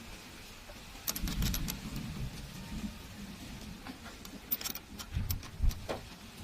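Metal pieces clinking and rattling in two short clusters, about a second in and again past the middle, over low knocks from handling.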